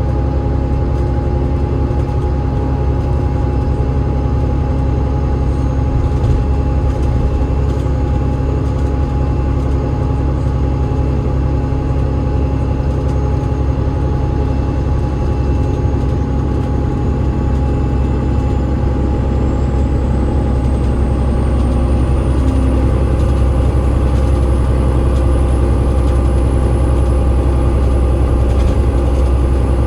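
Diesel drivetrain of an Alexander Dennis Enviro500 MMC double-decker bus (Cummins ISL8.9 engine, ZF EcoLife automatic gearbox) running on the move, heard from inside the bus as a steady low rumble. A faint high whine rises in pitch about halfway through and then holds, as the sound grows slightly louder.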